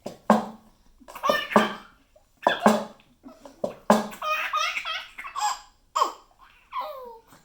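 Baby laughing excitedly in short bursts about once a second, turning into high-pitched squeals and babbling toward the end.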